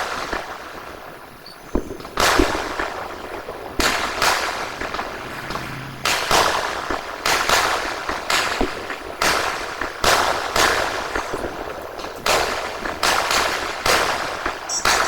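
Aerial sky-shot fireworks going off one after another: about twenty sharp bangs at uneven gaps of half a second to a second and a half, each followed by a crackling hiss.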